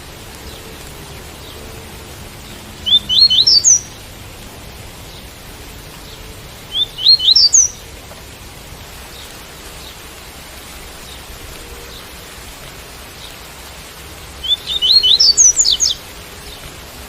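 Double-collared seedeater (coleiro) singing its 'tuí-tuí' song: three short phrases of quick, high, rising notes, about 3 s, 7 s and 15 s in, over a steady hiss of rain.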